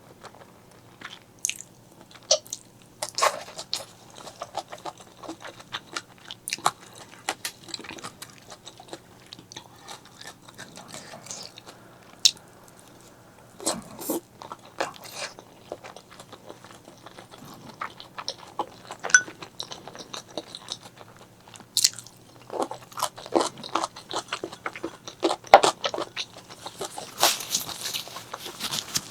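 Close-miked eating sounds of someone eating spicy black bean noodles and fried eggs: irregular biting and chewing with wet clicks and smacks. The strokes come thicker and denser in the last few seconds.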